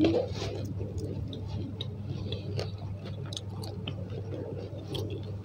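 Close-miked mouth chewing of a crispy fried eggplant fritter (bakwan terong), with many small, irregular crackles and wet clicks. A steady low electrical hum runs underneath.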